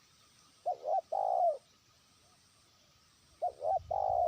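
Spotted dove (terkukur) cooing twice: each phrase is a quick two-note coo followed by a longer, drawn-out note. It is a trained decoy bird calling out to distant rivals.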